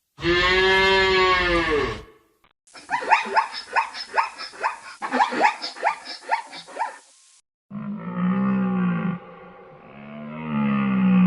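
Animal calls in three separate bursts split by short silences: a drawn-out call that rises and falls in pitch, then a quick series of short calls at several a second, then lower drawn-out calls.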